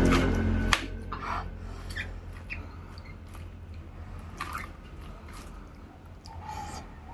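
Close-up eating sounds: wet chewing, lip smacks and small clicks of someone eating rice and curry by hand, scattered and irregular. A low rumble fades out in the first second.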